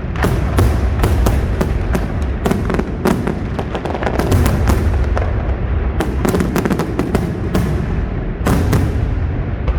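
Fireworks display, shells bursting in a dense barrage: many sharp cracks and bangs in quick succession over a continuous low rumble.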